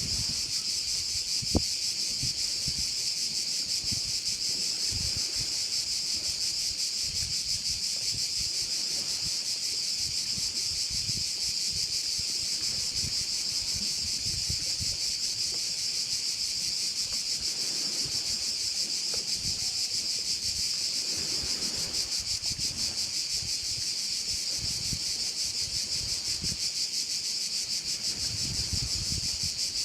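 A dense, steady, high-pitched chorus of crickets trilling without a break, with a low rumble of wind on the microphone coming and going underneath. One sharp click about a second and a half in.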